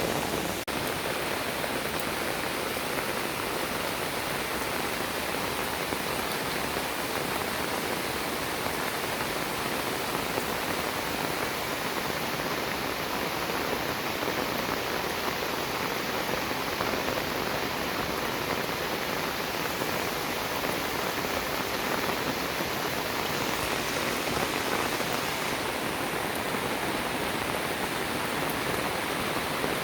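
Heavy, steady rain falling, an even hiss with no breaks.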